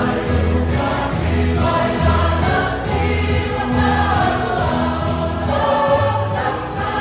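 Choir singing a gospel hymn with many voices together, over an accompaniment of repeated low bass notes.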